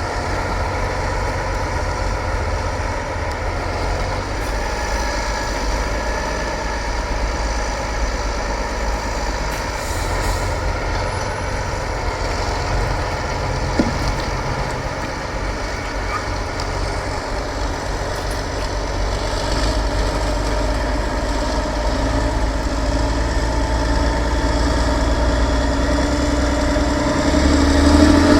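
Heavy off-road trial truck's engine running steadily at low revs, building up in loudness and pitch over the last few seconds. A single sharp click about halfway through.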